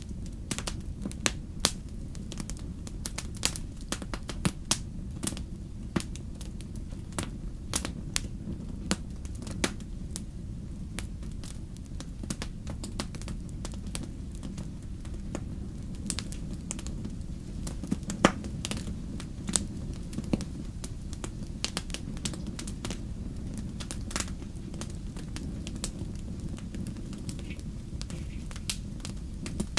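Campfire crackling: burning wood giving off frequent irregular sharp pops and snaps over a steady low rumble, with one louder pop past the middle.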